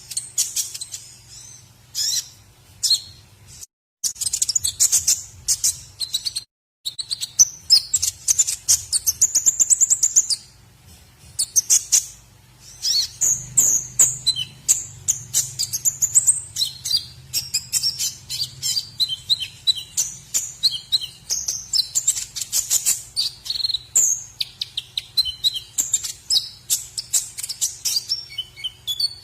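White-rumped shama (murai batu) singing a fast, varied song of high chirps, trills and whistles, broken twice by brief total silences in the first seven seconds. A faint steady low hum runs underneath.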